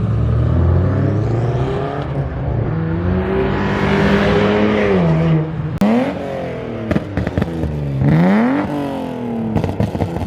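Loud car engine running, then revved hard three times, each rev a quick climb in pitch that falls away, with sharp cracks in between.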